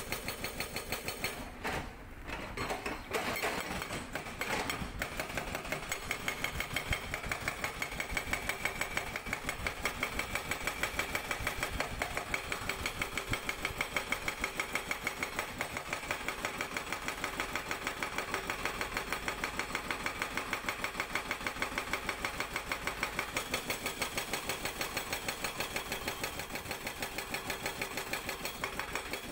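Sangdo SD220 hydraulic breaker on a Cat 320D excavator hammering rock: rapid, even blows over the excavator's running engine, with a short break about two seconds in before it picks up again.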